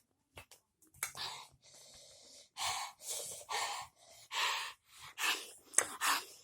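A person breathing hard through the mouth in a string of short gasps, about seven in a row, from the burn of eating spicy Takis chips.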